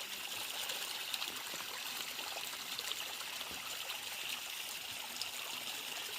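Steady rain falling, an even, continuous hiss with no let-up.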